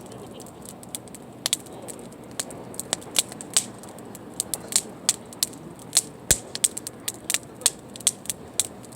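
Wood campfire crackling: a steady low rush with irregular sharp pops and snaps, often several a second, and one heavier snap about six seconds in.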